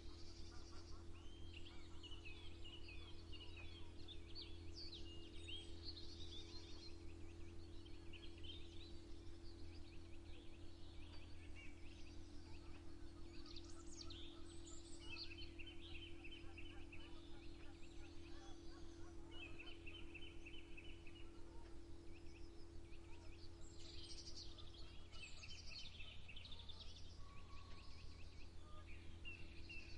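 Several wild birds chirping and trilling in a morning chorus, with short chirps and fast repeated trill phrases throughout, over a steady faint low hum.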